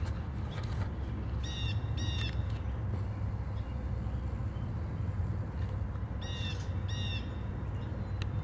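A bird giving short calls in pairs, twice, over a steady low rumble.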